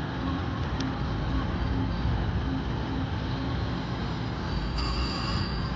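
Steady casino-floor din with slot machine sounds: a string of short, low electronic tones in the first few seconds, then a brief higher electronic chime about five seconds in.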